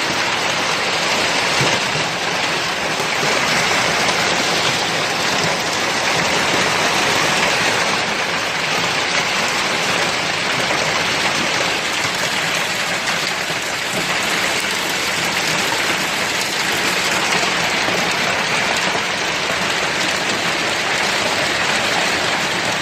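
Heavy rain falling steadily: a dense, even hiss of drops that keeps the same loudness throughout.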